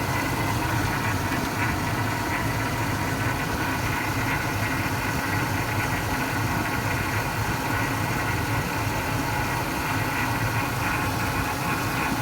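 2004 Cadillac Escalade ESV's 6.0-litre all-aluminium V8 idling steadily during an engine test.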